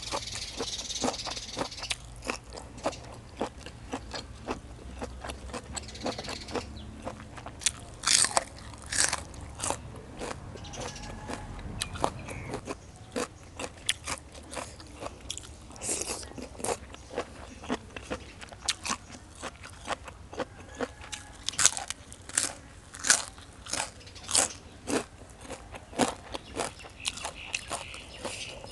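Close-up chewing of crunchy beef tripe salad: many crisp, sharp crunches with wet mouth sounds, some bites much louder than the rest.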